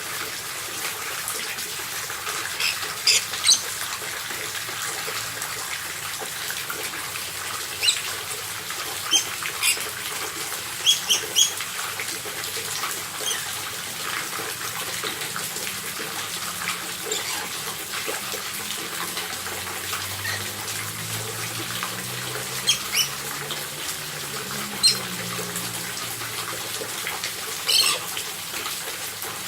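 Lories (nuri parrots) giving short, sharp squawks every few seconds, some in quick pairs, over a steady hiss.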